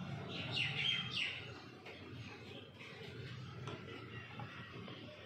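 Small birds chirping in the background: two quick falling chirps about half a second and a second in, then fainter chirps. A light click near the middle as a plastic dropper bottle is set down on a stone counter.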